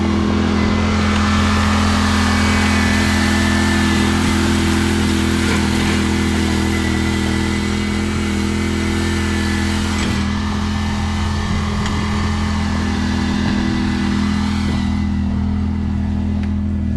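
John Deere Z530R zero-turn mower's engine running steadily at a constant speed, with a rushing noise over it that drops away near the end.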